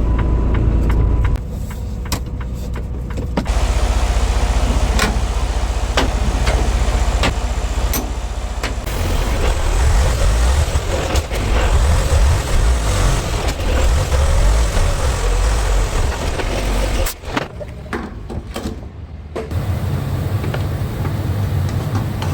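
Truck running, a steady low engine rumble with road noise and scattered clicks and rattles. The noise drops about seventeen seconds in.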